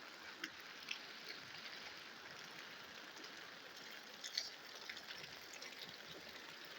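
Steady rain falling, with scattered sharp taps of drops landing; one louder tap comes about four and a half seconds in.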